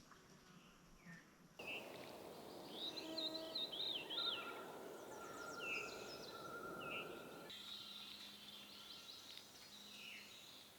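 Songbirds singing and chirping, several overlapping calls and warbling phrases, with the background changing abruptly twice.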